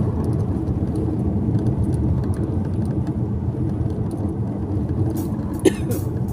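Steady road and engine rumble of a car being driven, heard from inside, with one brief click near the end.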